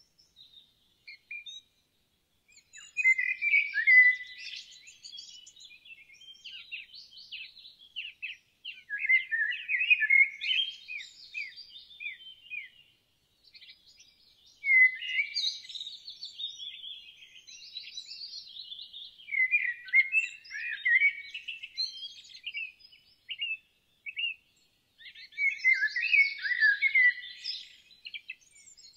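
Songbirds chirping and trilling in quick, bright phrases of a few seconds each, with short pauses between bursts of song.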